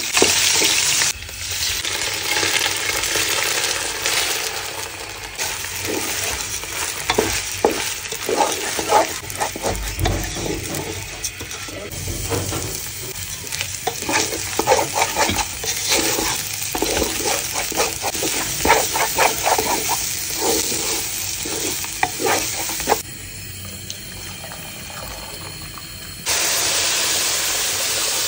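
Oil sizzling in a cooking pot as sliced shallots, bay leaves and whole spices fry, then rice being stirred through the hot pot with a utensil scraping the sides. Near the end, after a quieter spell, a louder steady hiss sets in as water over the rice comes to a boil.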